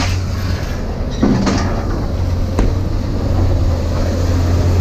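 A vehicle on the move: a steady low drone of engine and road noise, with a few sharp clunks or rattles, one about a second in and another about two and a half seconds in.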